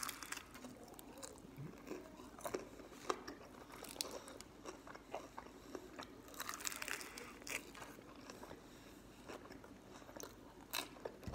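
A person biting into and chewing fried chicken with a crunchy breaded crust: a run of faint, irregular crunches.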